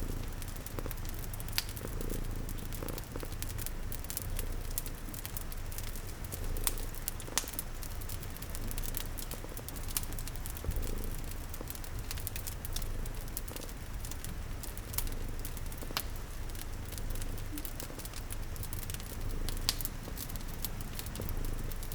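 Layered ambience: a cat purring with a steady low rumble, a wood fire crackling with scattered sharp pops, and rain pattering as an even hiss.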